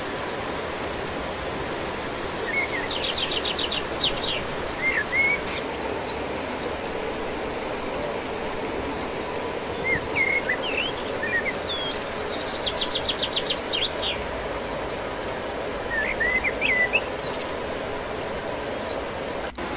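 Small birds calling over a steady background hiss: two rapid trills of a dozen or so quick notes, about ten seconds apart, with scattered short chirps in between.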